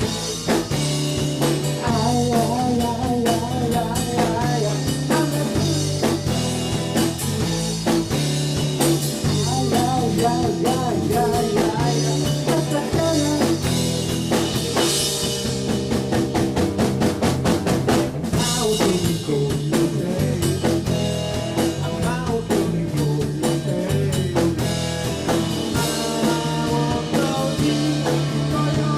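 A rock band playing live: electric bass, drum kit and a wavering melodic line, with some singing.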